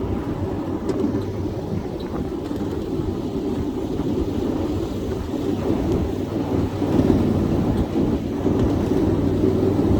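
Steady low rumble of a 7.5-inch gauge riding train's wheels rolling on the rails, heard from aboard, with a few faint clicks.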